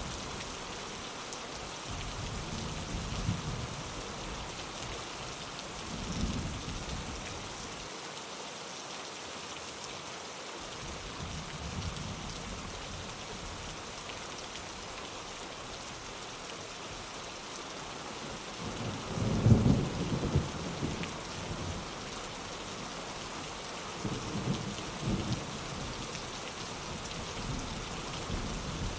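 Steady rain falling on a window, with thunder rumbling several times; the loudest, longest rumble comes about two-thirds of the way through.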